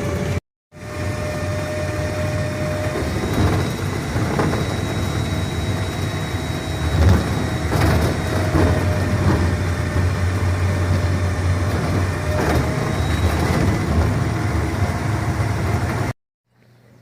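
Steady mechanical running noise of a vehicle in motion, with a faint thin whine over it; it cuts out abruptly about half a second in and again near the end.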